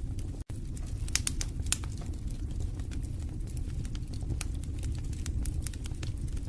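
Wood fire in a fireplace crackling: a steady low rumble of flames under frequent sharp pops and snaps, with a couple of louder pops a little over a second in. The sound cuts out for a split second about half a second in.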